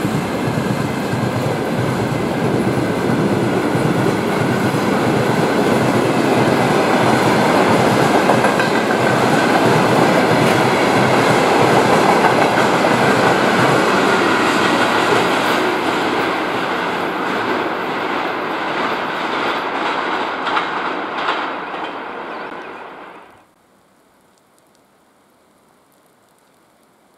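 Freight train of railway tank wagons rolling past close by, wheels clattering over the rail joints. The sound drops away quickly about 23 seconds in, leaving only a faint background.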